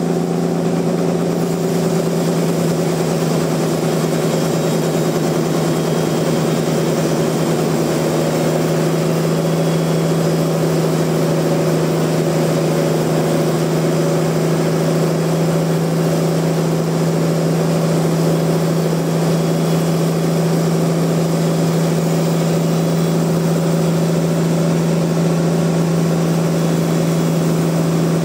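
Sawmill machinery running steadily: a constant, unchanging hum.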